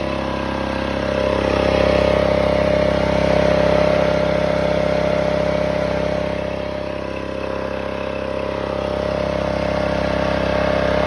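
Small single-cylinder gasoline engine of a Power Horse 3100 psi pressure washer running steadily on a newly fitted carburetor, its level swelling and dipping slightly. The owner hears a gap in the power, which he thinks may mean the water pump is going out.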